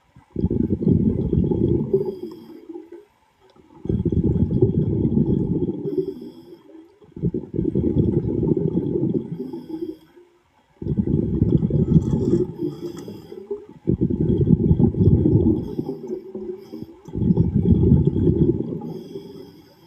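A diver breathing underwater: exhaled air bubbling out of the breathing regulator in six low, rumbling bursts of two to three seconds each, with short quiet pauses for the in-breaths in between.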